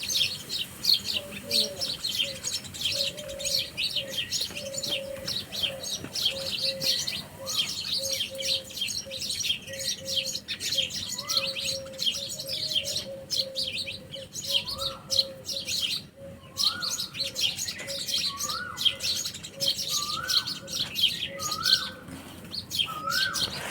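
A chorus of songbirds chirping densely and continuously, over a low note pulsing steadily. From about a third of the way in, one bird repeats a short rising whistle, coming more often until it sounds about once a second.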